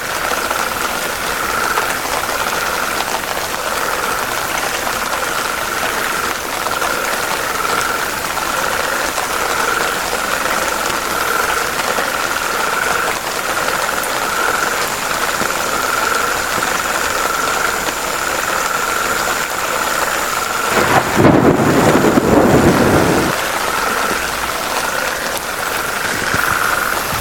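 A chorus of frogs calling steadily at one pitch, over an even hiss. About 21 seconds in, a louder low rumble swells for about two seconds.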